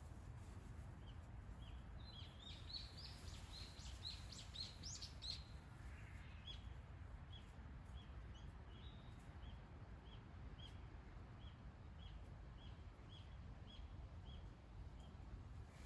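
Faint birdsong: a small bird sings a quick run of high notes for a few seconds, then short single call notes repeat about twice a second, over a steady low rumble.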